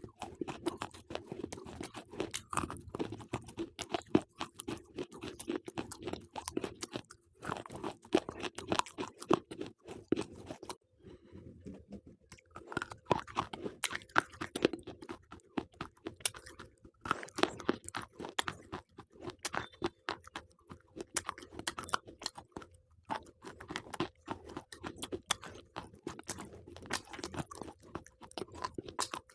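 Slate pencils being crunched and chewed close to the microphone: dense, crisp crackling of teeth breaking the brittle sticks, broken by a few short pauses.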